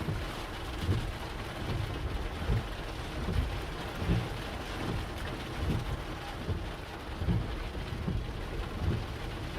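Heavy thunderstorm rain falling steadily, with low thuds roughly once a second.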